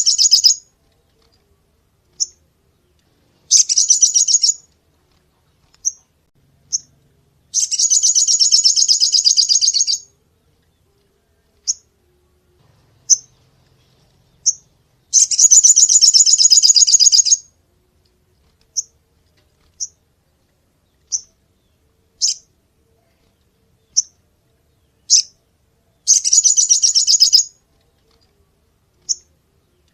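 Sogon songbird singing: high, fast-pulsed trills of one to two and a half seconds, with single short sharp notes between them.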